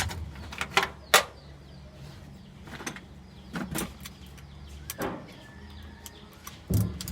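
A truck engine running low and steady, with about five sharp knocks and clanks spread across it, the loudest near the end.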